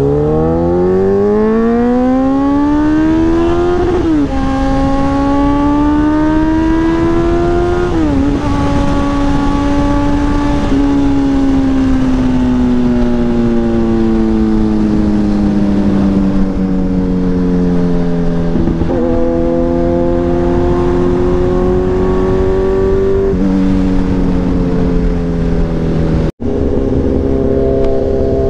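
Sport motorcycle engine accelerating hard through the gears. Its pitch climbs steeply, then drops at each upshift about four and eight seconds in. After that it cruises with the pitch easing slowly down, rises again, and drops once more near the end.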